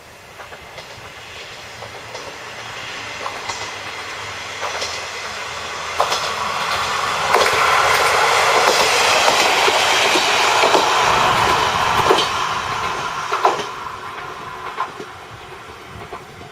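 A JR Yodo Line diesel railcar passing, its wheels clicking over the rail joints. The sound builds, is loudest just past the middle, then fades as the train moves away.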